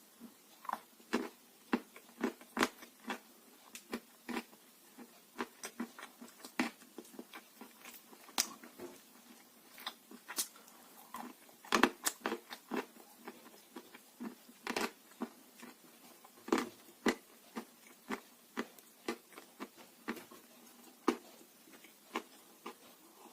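Pieces of dry blue Uzbek clay being bitten and chewed in irregular sharp crunches, about one or two a second.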